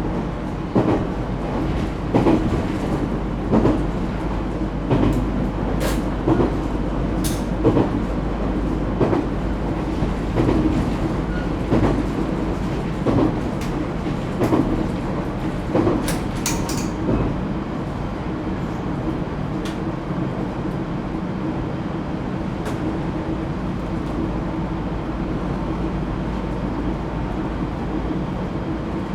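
Echigo TOKImeki Railway ET127-series electric train running, heard from inside the car. For the first half its wheels knock over rail joints about every second and a half; then the knocking stops and only a steady running rumble remains.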